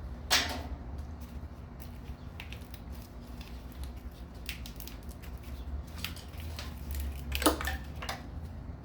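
Handling of parts on a VG33E engine during teardown: scattered light clicks and knocks, with two sharper knocks, one just after the start and one about three-quarters through, over a steady low hum.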